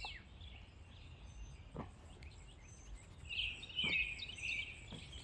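Small songbirds chirping: short, high, falling chirps, with a cluster of twittering about three to four seconds in, over a faint low background rumble.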